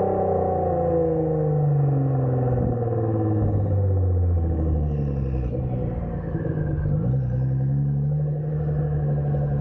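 Straight-piped Nissan GT-R's twin-turbo V6 running under way with a loud exhaust. Its pitch falls steadily over the first few seconds as the revs drop, then dips and picks up briefly about seven seconds in before holding steady.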